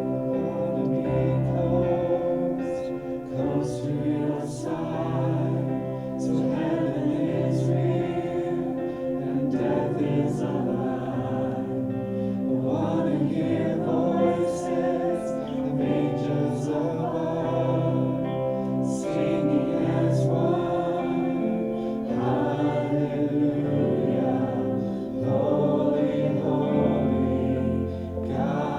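A group of voices singing a contemporary worship song together over a keyboard playing a sustained synth pad.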